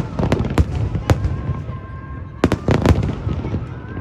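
Aerial fireworks shells bursting: a few sharp bangs at the start, another about a second in, and a quick cluster of several bangs near three seconds, over a continuous low rumble of echoing reports.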